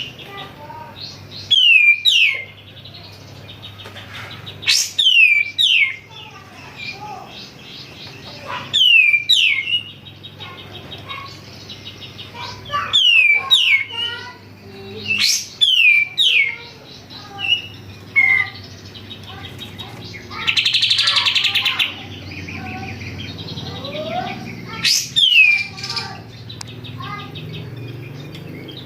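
Kapas tembak, a bulbul, singing loudly: short phrases of two or three quick downward-sliding whistles, repeated every few seconds, with a harsh buzzing chatter about two-thirds of the way through.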